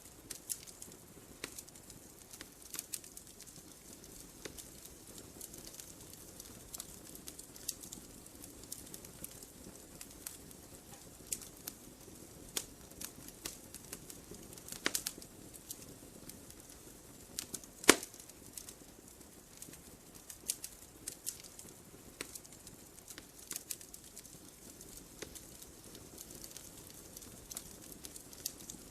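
Wood fire burning in a fireplace: frequent sharp crackles and snaps over a soft steady rush of flame, with one loud pop about two-thirds of the way through.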